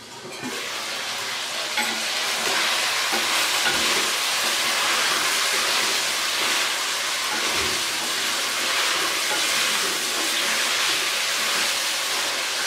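Chicken pieces frying in oil with onion-tomato masala in an aluminium pot: a steady sizzle that swells over about the first two seconds, while a wooden spatula stirs and turns the pieces.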